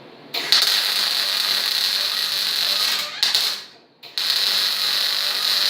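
MIG welding arc crackling steadily in two short runs, with a brief stop a little past halfway. The weld puddle is a little too hot for the material, which the welder accepts for deeper penetration.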